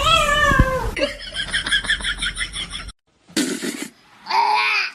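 A cat meowing: a drawn-out meow that falls in pitch at the start and another meow near the end. Between them is a rapid, high, repeating sound, then a brief break.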